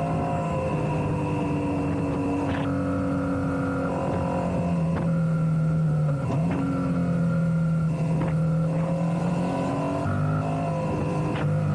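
Motorcycle engine running under way at a fairly steady pitch, with a brief dip in revs about six seconds in.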